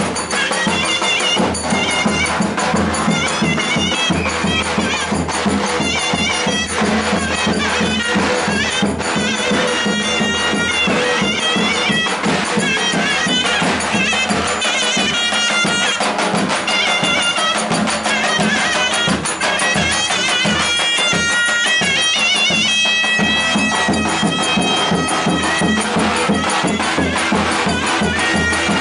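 Traditional Turkish wedding music: a shrill reed wind instrument plays a continuous, ornamented melody over steady low tones and a regular drum beat.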